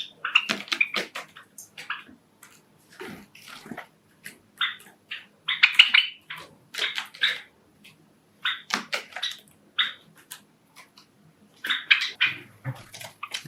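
Pet Java sparrows making clusters of short, sharp, irregular sounds with brief pauses between them.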